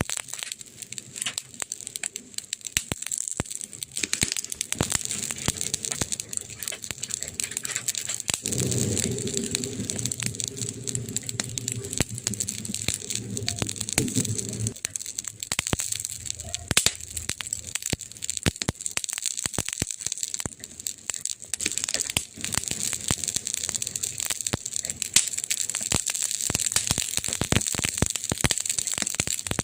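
Burning wood crackling, with frequent sharp snaps and pops over a steady hiss. A low steady hum runs underneath for about six seconds in the middle.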